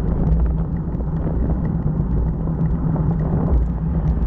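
Motorcycle engine running steadily at road speed, with a constant rushing noise over it.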